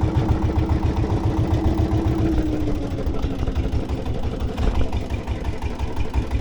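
An engine running steadily with a fast low pulsing; its pitch sinks slightly a couple of seconds in.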